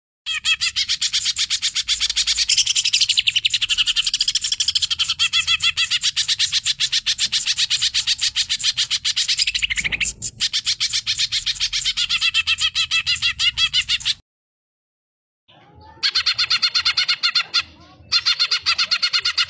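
Greater green leafbird (cucak ijo) singing a long, very fast run of rapid repeated high notes. The song breaks off about fourteen seconds in and starts again after a short pause.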